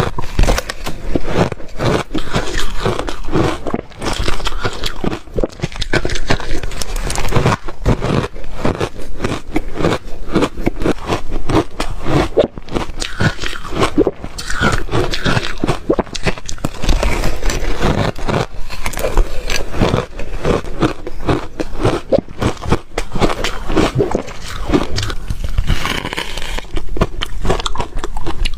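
A person biting and chewing ice: a continuous run of sharp crunches and cracks.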